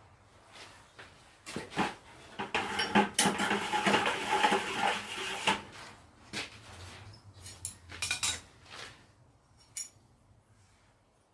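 Steel blacksmith tongs being handled and fitted together: metal clinking and rattling, a dense clatter for a few seconds, then a handful of separate clinks.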